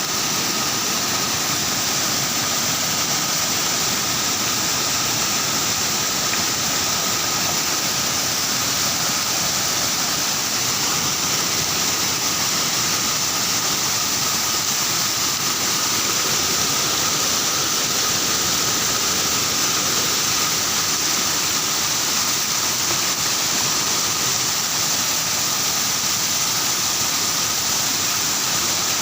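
Steady, loud rush of rain-swollen water, unbroken throughout, with a faint steady tone running through it.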